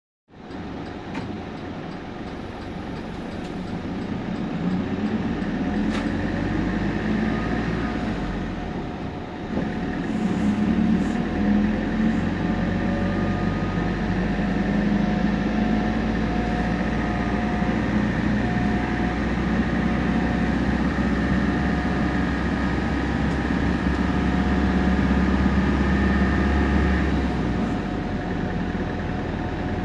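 Temsa Prestij SX midibus pulling away and accelerating: the diesel engine running under load with steady turbo and differential whine over the engine rumble. The sound dips briefly about nine seconds in, then builds again, and eases off near the end.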